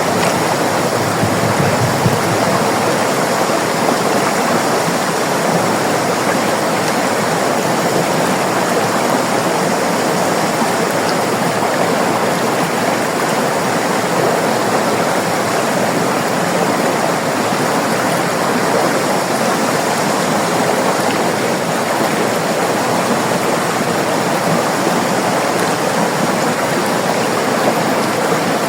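River water running over rocks, a steady rushing flow.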